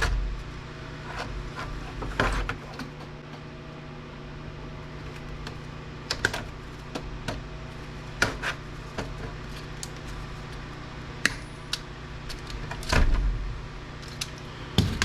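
Scattered clicks and knocks of parts and tools being handled while an APC battery backup unit is taken apart, over a steady low hum.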